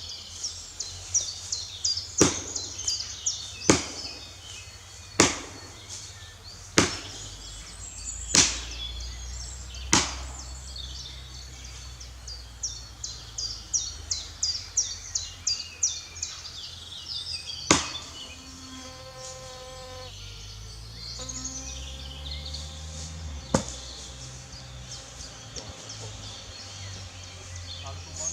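Repeated sharp chopping strikes into wood or brush, about one every second and a half, then a couple more spaced further apart, over a fast high clicking.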